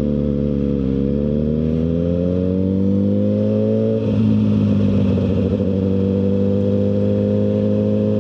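2023 Suzuki GSX-R1000R's inline-four engine through a CS Racing full exhaust, its revs climbing gradually for about four seconds, then changing abruptly and holding steady.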